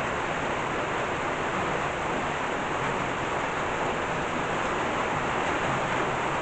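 Steady rain falling, an even hiss without breaks, from a tropical thunderstorm as its downpour eases.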